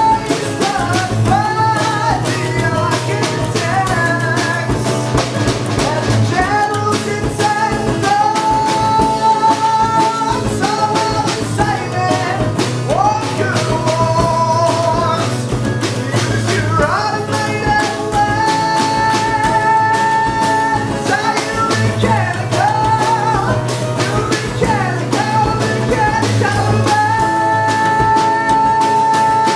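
A rock band playing a passage with drum kit, guitar and bass under a lead melody of long held notes that slide and waver in pitch.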